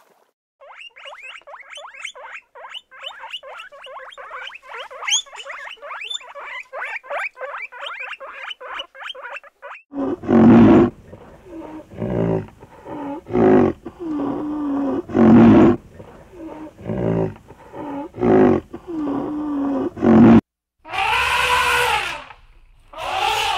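A fast run of dry chattering clicks, about five a second, for the first ten seconds. Then a rhinoceros gives a series of loud, low grunting calls, each half a second to a second long. Near the end an elephant trumpets twice.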